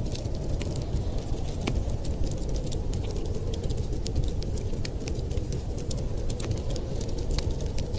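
Wood fire crackling, with many short sharp pops scattered irregularly over a steady low rumble.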